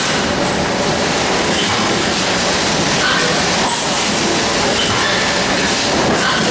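Steady loud rumbling noise, like a vehicle in motion, with short high squeaks recurring every second or two: the abnormal noise being recorded.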